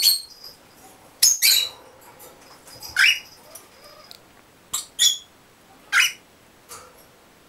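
Pet gray parrots giving a series of short, sharp squawking calls, roughly one a second.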